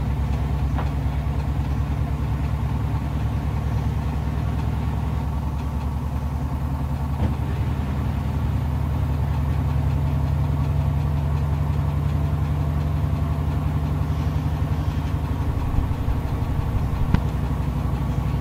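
Washing machines running: a steady low motor-and-drum hum, with a few faint clicks.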